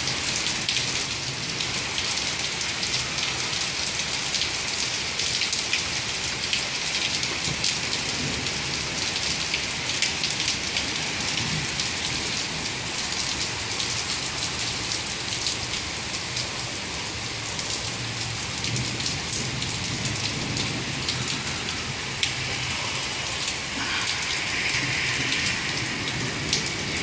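Heavy downpour of big raindrops falling steadily on pavement, a wet street and a car hood, a dense even hiss with many sharp ticks of single drops striking close by.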